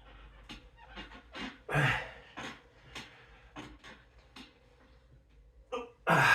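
A man breathing hard from exercise in short, repeated puffs, with a louder, longer gasping breath near the end.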